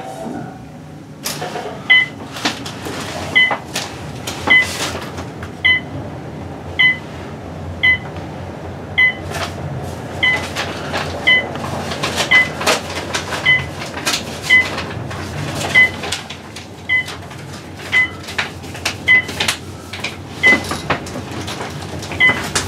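A short, single-pitched electronic beep repeating a little less than once a second, over a steady low rumble with frequent knocks and clatter.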